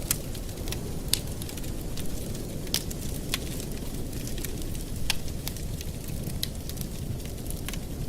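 Wood fire burning in a fireplace: irregular sharp crackles and pops, roughly one a second, over a steady low rumble.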